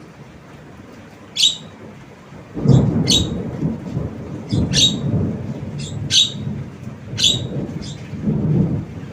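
Javan myna giving short, sharp, high squawks, roughly one a second, over a loud low rumbling noise that starts about two and a half seconds in and swells and fades.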